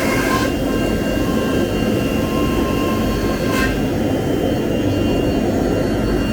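CNC router running steadily, a whine of steady tones over constant machine noise; the high hiss drops off about half a second in, with a short sharp sound midway.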